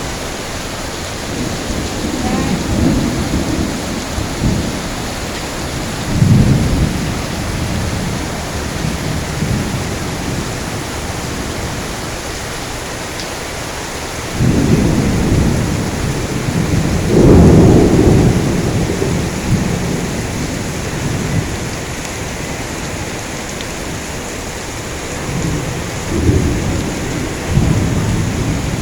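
Heavy rain falling steadily, with rolls of thunder rumbling again and again over it; the loudest roll comes a little past halfway through.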